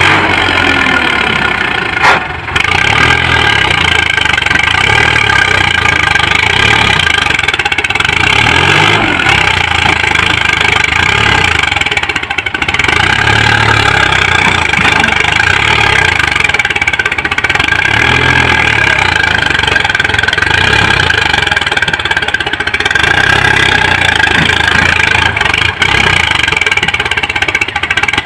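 Sonalika DI tractor's diesel engine running steadily under the load of a trolley, its pitch rising and falling a few times. There is a single sharp knock about two seconds in.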